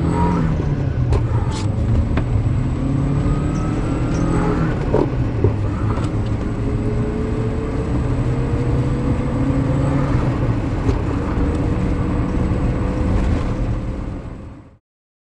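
A Subaru Sambar KS4 mini truck engine running steadily, with a few sharp clicks in the first couple of seconds. Over the second half a tone slowly rises in pitch, and the sound fades out near the end.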